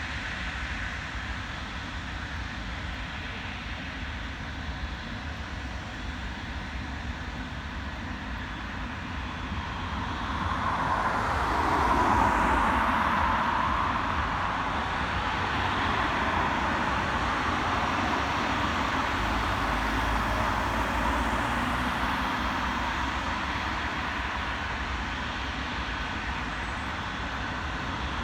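Jet airliner passing: its engine noise swells about ten seconds in, loudest a couple of seconds later with a sweeping change in pitch, then stays loud as it moves on.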